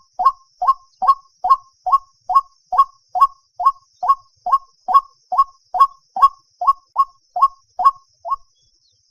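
White-breasted waterhen (dahuk) calling, a steady series of short repeated notes at about two and a half a second, which stops shortly before the end.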